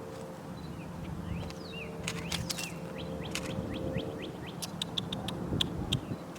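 Small birds chirping in short rising notes, about five a second in the middle, mixed with sharp camera shutter clicks: a few about two seconds in, then a quick run near the end. A low steady hum runs underneath.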